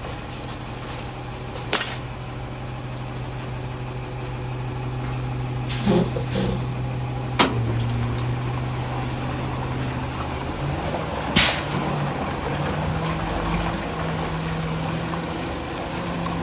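Garbage truck engine running steadily, then rising in pitch in steps about two-thirds of the way through. A few sharp knocks and a couple of short air hisses come through the middle.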